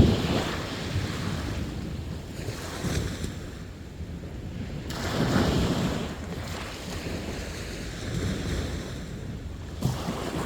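Sea waves breaking and washing up on a beach, surging at the start and again about five seconds in, then easing back between breaks.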